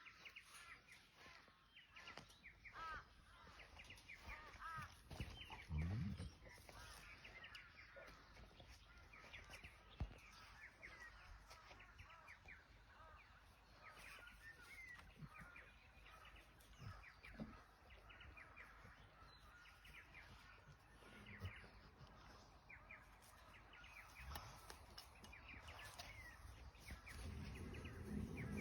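Faint birds chirping in short high calls, with a few soft thumps and a sharp click about ten seconds in.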